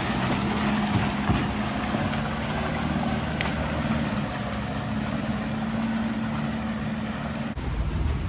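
Four-wheel-drive truck's engine running steadily while driving, with rumble and wind noise on the microphone. A sudden break comes near the end, after which the low rumble is heavier.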